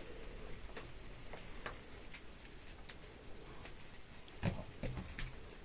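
Small dogs' claws clicking and tapping on a hard floor as they play, with a dull thump about four and a half seconds in.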